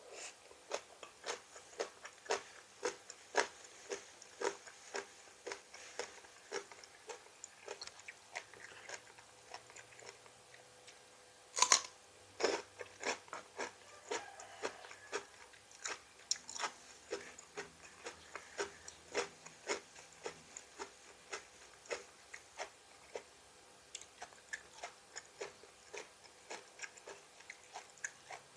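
A person eating crunchy raw vegetables with a seafood papaya salad, biting and chewing in a steady run of crisp crunches about two or three a second. One much louder crunch comes about twelve seconds in.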